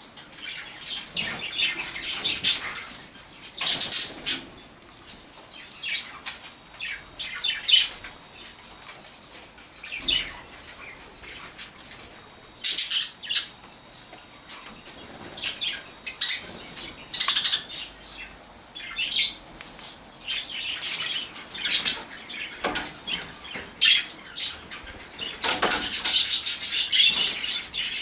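Budgerigars chirping and chattering in irregular bursts, mixed with flurries of wing flapping.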